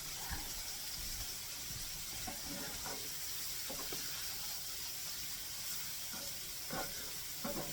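Sliced mushrooms and flour sizzling in a hot skillet, a steady hiss, as the flour is spread around to cook into a roux for gravy.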